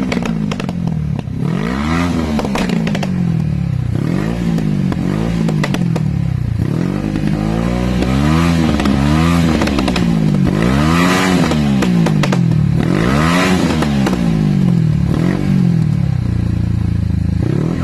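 Yamaha XS400 parallel-twin motorcycle engine revved in repeated throttle blips, the pitch rising and falling every second or two, with sharp exhaust pops and crackles as the revs drop: backfiring on the overrun.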